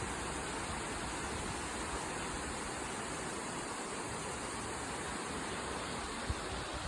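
Steady rushing of flowing water, with one brief low bump about six seconds in.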